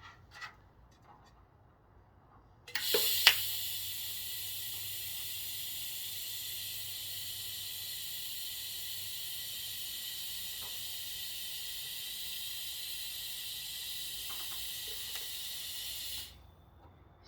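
TIG welding arc: a steady, high hiss that strikes up a few seconds in with a sharp crack, holds even for about thirteen seconds, then cuts off suddenly as the arc is broken.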